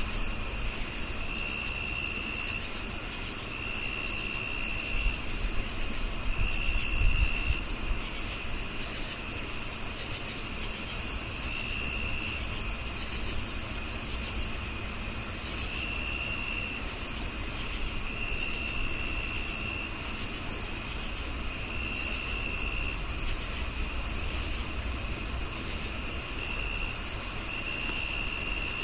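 Several crickets chirping together. One gives short, evenly spaced chirps about three a second, another holds a steady high trill, and a lower one trills in stretches of about a second with short gaps between. A brief low rumble comes about six to seven seconds in.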